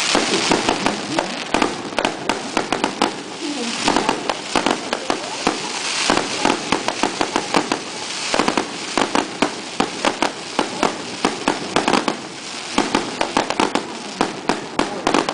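Fireworks going off: rapid runs of sharp crackling pops and bangs over a hiss, with short lulls between the runs.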